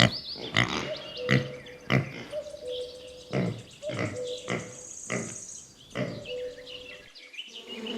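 Piglets calling in short, repeated grunts and squeals, roughly one or two a second, dying away near the end.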